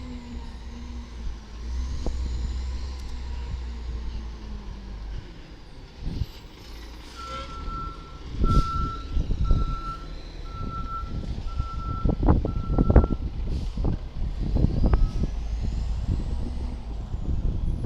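Garbage truck's diesel engine running low and steady, then its reversing alarm beeping about once a second for some six seconds as it backs up, with low thumps around the beeps.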